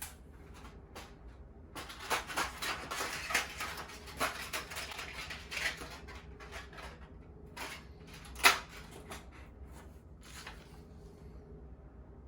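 Rustling and clicking of gear being handled, busiest in the first half, with one sharp click about eight and a half seconds in.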